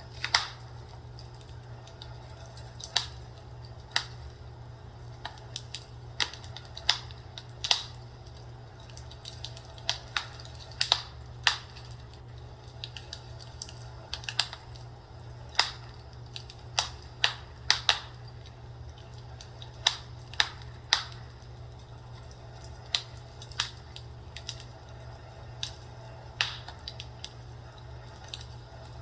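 Fireplace crackling: irregular sharp pops and snaps of burning wood, some louder than others, over a steady low hum.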